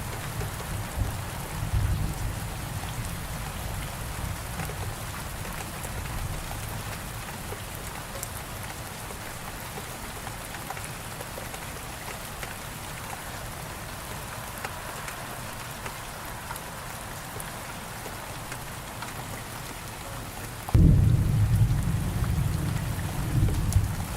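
Steady heavy rain, with low rolling thunder at first that dies away. Near the end a sudden loud thunderclap breaks in and keeps rumbling.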